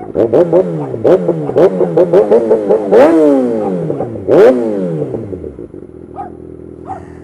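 Kawasaki ZX-6R 636 inline-four sport bike with an M4 GP-style aftermarket exhaust, revved in a quick series of throttle blips from idle. The two highest blips come about three and four seconds in, and then the engine settles back to idle.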